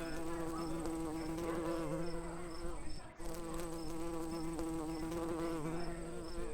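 A flying insect buzzing steadily, its hum wavering a little in pitch, with a short break about three seconds in. A faint high tick repeats about three times a second under it.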